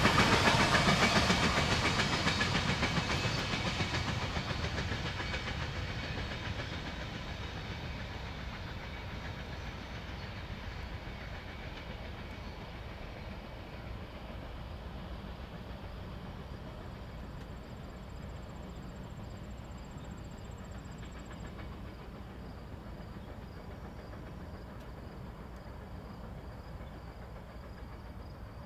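Freight train of tank cars and boxcars rolling past on the rails, its clatter fading steadily over the first ten seconds or so as it moves away, leaving a faint, steady low rumble.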